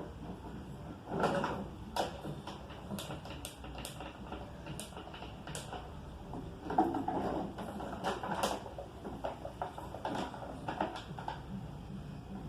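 A sleeping dog snoring in uneven noisy breaths, with scattered sharp clicks.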